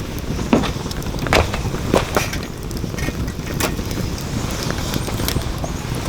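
Firewood burning in a fire pit, crackling with sharp irregular pops every second or so over a low steady rumble.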